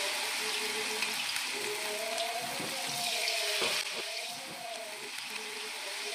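Rice-flour-battered tempeh pieces sizzling in hot oil in a wok, a steady hiss of frying that eases a little about four seconds in.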